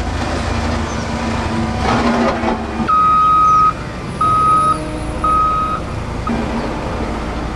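A steady motor hum with mechanical noise, then three loud electronic beeps at one pitch, the first the longest, like a vehicle's reversing alarm, followed by a short blip.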